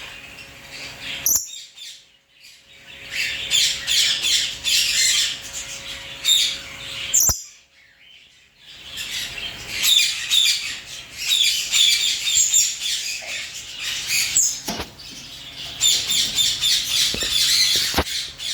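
Aviary birds chirping and twittering without a break, with occasional squawks. The sound cuts out suddenly twice for about a second.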